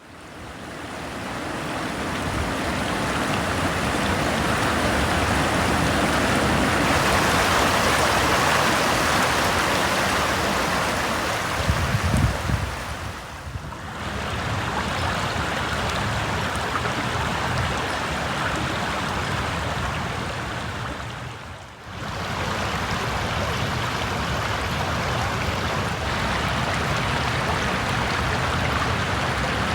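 Steady rushing of flowing water, fading in at the start and dropping away briefly twice, about 13 and 22 seconds in. A few low thumps come just before the first drop.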